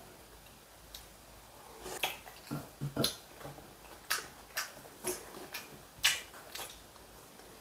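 A person chewing a mouthful of braised eel wrapped in aged kimchi, with a string of sharp mouth clicks and smacks starting about two seconds in and running almost to the end.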